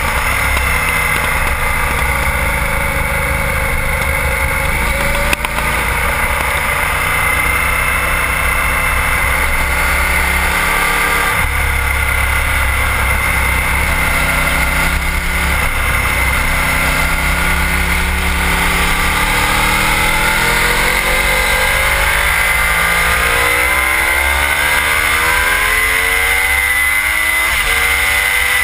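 Sport bike engine heard from a camera on its own lower fairing, revving up and falling back again and again as it is ridden hard around a race track, with a steady rush underneath.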